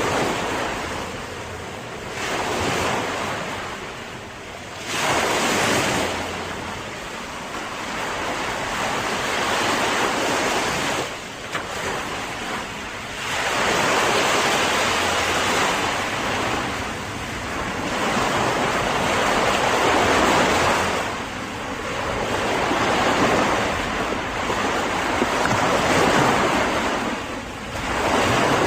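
Sea surf: waves breaking and washing in, the noise swelling and ebbing every few seconds, with wind rumbling on the microphone.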